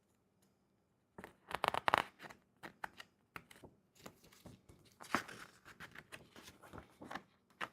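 Wooden beehive parts and packing material being handled and shifted: a string of irregular knocks, scrapes and rustles starting about a second in.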